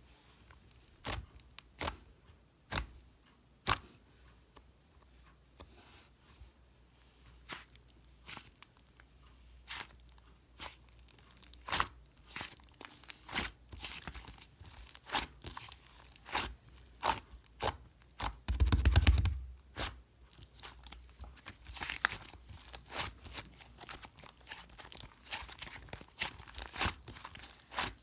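Slime being squished and pressed by hand, giving sharp pops and clicks. They come sparsely at first and much faster from about halfway, with a loud low thump about two-thirds of the way through.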